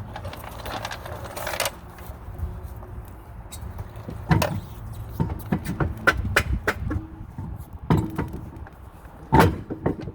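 Metal clanks and clinks of tools and wheel hardware being handled during brake work, with several sharp knocks about four, six, eight and nine and a half seconds in, over a low steady hum.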